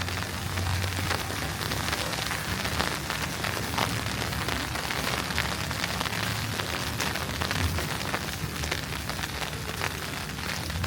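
Wet snow pattering and crackling, a dense run of small irregular ticks, over a steady low hum.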